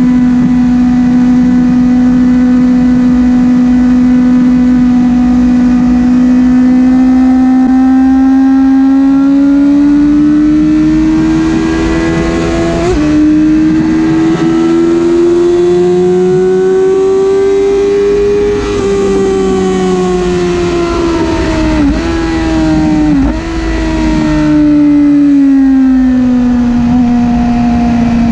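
Yamaha YZF-R6 inline-four engine heard from on board at high revs. It holds a steady note, then climbs in pitch as the bike accelerates, with a brief break around a third of the way in. Past halfway the note falls away under braking, with two quick downshift blips a little over a second apart, before settling steady again.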